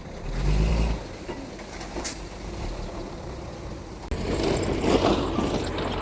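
Mitsubishi G2 bulldozer's diesel engine running, with a sharp click about two seconds in; about four seconds in the sound turns louder and rougher.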